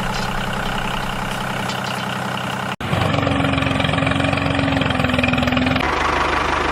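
A steady, buzzing motor sound like an idling engine. It cuts off abruptly about three seconds in and resumes louder with a steady hum, then shifts again about six seconds in.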